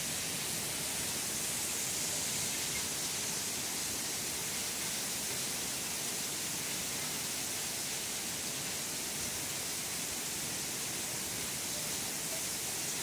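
Heavy rain pouring down in a thunderstorm, a steady, unbroken hiss.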